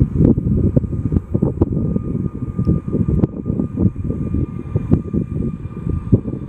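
Jet aircraft engines running loud, a low rumble full of irregular crackle. The sound comes in abruptly at the start.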